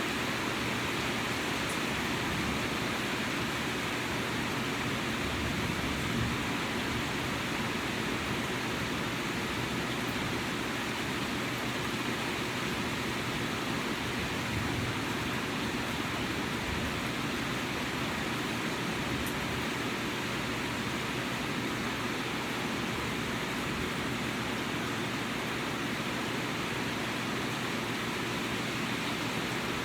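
Steady rain falling, an even rushing hiss that does not change.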